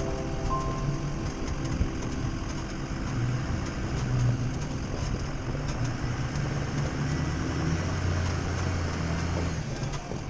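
Ford F-250 Power Stroke diesel V8 idling steadily.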